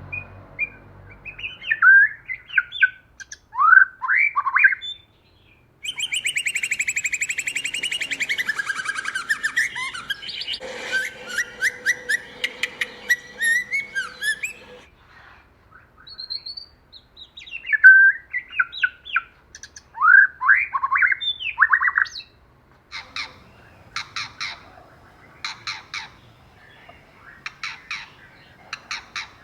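White-rumped shama singing: loud, fast sweeping whistled phrases, a long harsh, rapid chattering run in the middle, then a series of sharp clicking calls near the end.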